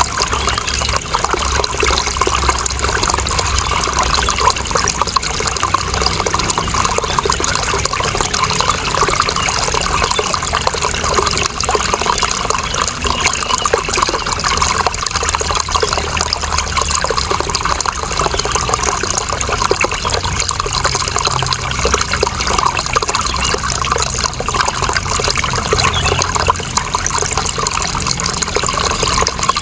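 Running water, a steady rush and trickle with many small splashes and no let-up.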